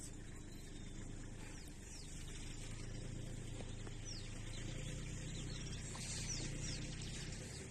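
Wild birds giving short, high, falling chirps every second or two, over a low steady rumble that grows louder about five seconds in.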